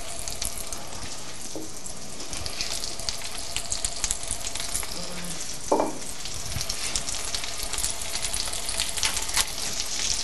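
Turkey, stuffing and mashed-potato cakes sizzling and crackling in hot butter and olive oil in a skillet as they are laid into the pan one by one: a steady hiss with constant fine pops.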